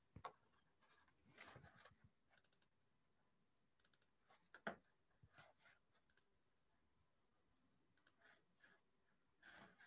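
Near silence broken by faint, irregularly spaced clicks and brief small noises, about a dozen of them.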